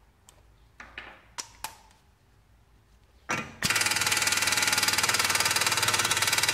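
A few light metal clinks, then about three and a half seconds in an impact wrench starts hammering in a fast, steady rattle, undoing the 46 mm front hub nut of a BMW E46.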